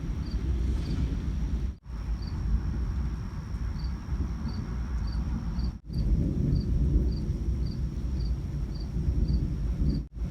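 Crickets chirping steadily, about two to three chirps a second, over a continuous low rumbling noise. The sound drops out briefly three times.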